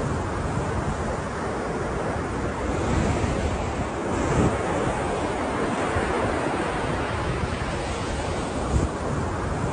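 Ocean surf: a continuous wash of breaking waves that swells louder about three and four and a half seconds in. Wind buffets the microphone as a low rumble underneath, with a brief gust bump near the end.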